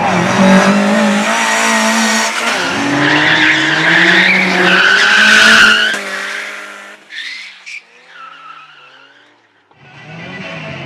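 Slalom car's engine revving hard up and down with tyres squealing as it is driven around the course; the sound fades away about six seconds in, and engine noise comes back near the end.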